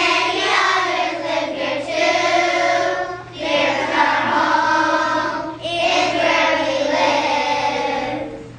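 Children singing together as a choir, in sustained sung phrases with two short breaths between them, ending shortly before the close.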